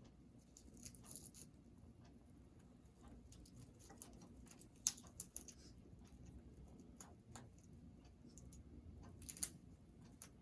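Congo African grey parrot chewing and tearing at a chew toy: irregular small crunches and sharp snaps, the loudest about five seconds in and again near the end.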